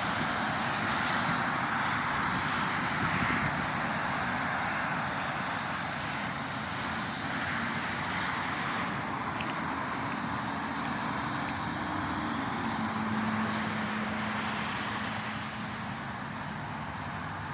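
Steady road traffic noise from cars going by. A low vehicle engine hum stands out for a few seconds about two-thirds of the way through.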